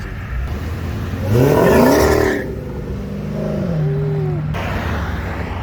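A car engine revs sharply up and falls back about a second in, then runs at a steady lower pitch that drops once more before it fades.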